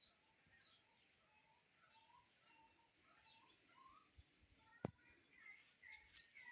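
Faint birdsong: many short chirps and calls from several birds, with a sharp click about three-quarters of the way through.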